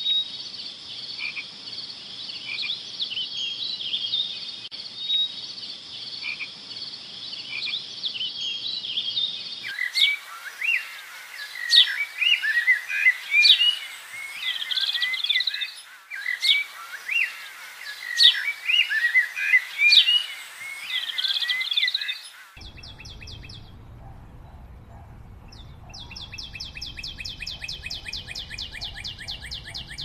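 Songbirds singing in spliced segments: first a dense, steady haze of high chirps, then varied, quick warbling song phrases, and about three-quarters through an abrupt change to a fast, evenly pulsed trill over a low rumble.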